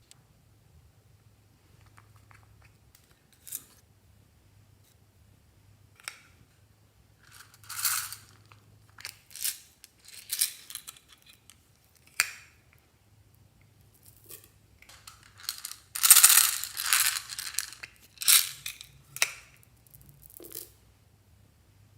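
Fluffy slime being mixed and squished by hand, giving crackly, sticky squelches in irregular bursts. The loudest stretch comes about two thirds of the way through.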